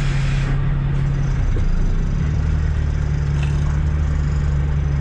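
Kenworth W900B's CAT C13 diesel engine running at idle. A hiss dies away about half a second in, and the engine note shifts to a lower, heavier tone around two seconds in.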